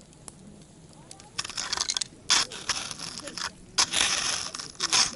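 Campfire with several loud crunching, crackling bursts: the first about a second and a half in, a sharp one soon after, and the longest and loudest near four seconds.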